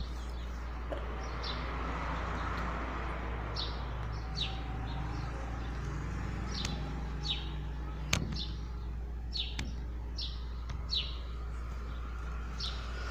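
Small birds chirping: short high chirps that repeat about once a second over a steady low hum, with a few sharp clicks from the phone being handled.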